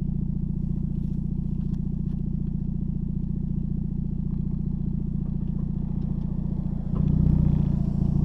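2009 Mazda MX-5 Miata (NC) four-cylinder idling steadily through a Tomei Expreme titanium axle-back exhaust; about seven seconds in the revs step up and the exhaust note gets louder and holds there.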